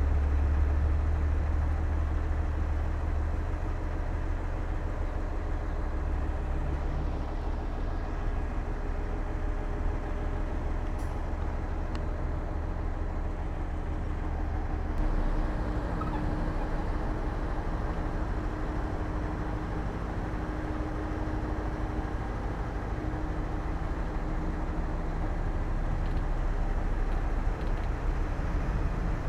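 Heavy diesel earthmoving machinery running steadily, a low engine drone that shifts in pitch and strength about halfway through.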